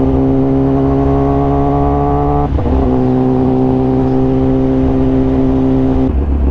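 Kawasaki ZX-10R inline-four engine running steadily under way. About two and a half seconds in there is a brief break, and the note comes back slightly lower. Near the end the engine note cuts out, as the bike slips into neutral.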